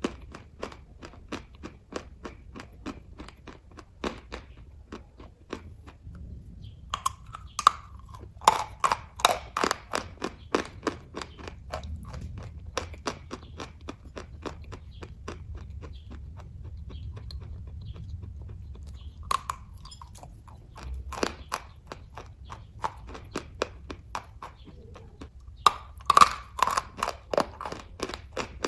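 A person chewing kaju katli (soft cashew fudge) close to the microphone: a steady run of small mouth clicks, several a second, with louder bursts of chewing about a quarter of the way in and again near the end.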